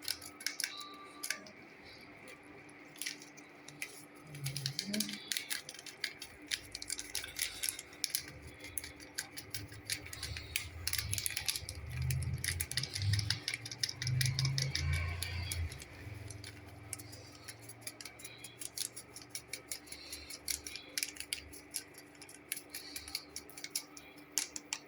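Spices being added to a stew pot: many small clicks and rattles of containers and utensils, with heavier low bumps of handling in the middle.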